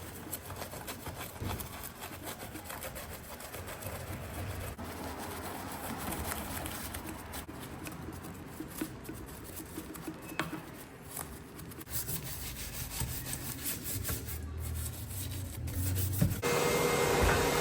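Rubbing and scrubbing on the car's surface during hand cleaning, uneven and broken by small clicks. About sixteen seconds in, a louder steady machine hiss with a whine starts.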